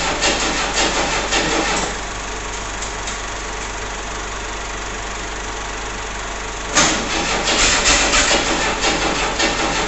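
1964 Ford Falcon straight-six engine being cranked over by its starter in rhythmic pulses without catching. Cranking stops about 2 s in and starts again about 7 s in.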